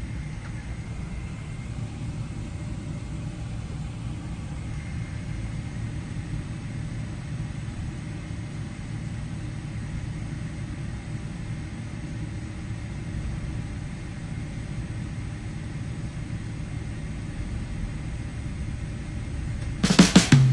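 Steady low rumble of a jet airliner's engines, unchanging throughout. Guitar music cuts in near the end.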